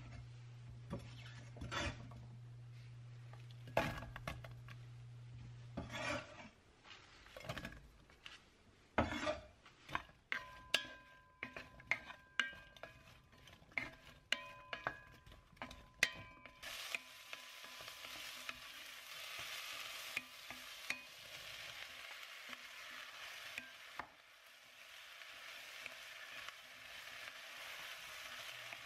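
Diced onion and potato stir-fried in hot oil in a Staub enamelled cast-iron pot: a wooden spatula knocks and scrapes against the pot. From a little past halfway a steady sizzle of frying takes over. A low hum sounds in the first few seconds.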